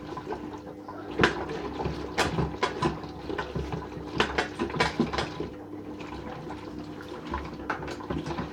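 Water sloshing and splashing irregularly inside a toy washing machine during a rinse, over a steady faint hum.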